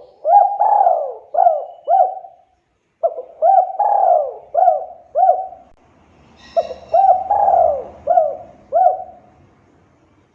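Spotted dove (tekukur) cooing loudly in three repeated phrases, each a run of about five quick hooked coos with a short pause between phrases.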